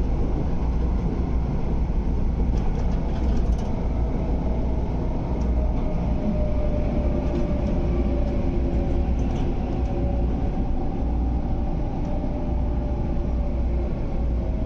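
Steady rumble of an MTR Airport Express train heard from inside the carriage. From about six seconds in, a motor whine slowly falls in pitch as the train slows on its approach into the station.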